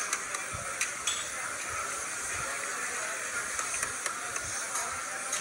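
Lamb pieces and tomatoes sizzling in a steel karahi over a wood fire. A metal ladle stirs through them and clicks against the pan a few times.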